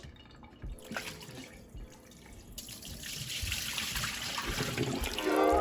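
Water tap running into a sink, the flow starting about halfway through and getting louder, after a few light knocks.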